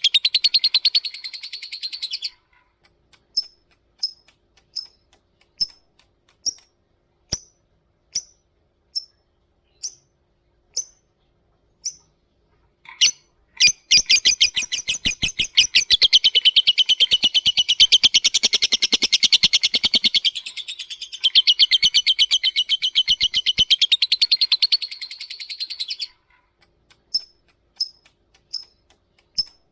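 Lovebird song: a rapid chattering trill (ngekek) that breaks off after about two seconds, then single sharp chirps about one a second. Near the middle comes a long unbroken chattering trill of about twelve seconds, followed again by spaced single chirps.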